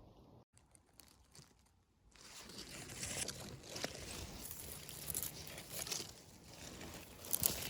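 Irregular crunching and crackling that starts about two seconds in and carries on unevenly.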